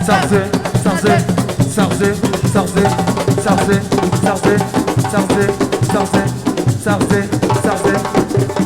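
Live siko (assiko) band music: fast, dense drumming with a voice singing over it.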